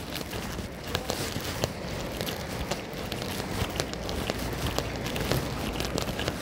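Footsteps on a wet, slushy street in steady rain, with many small irregular clicks and splashes over a constant hiss of rain and city noise.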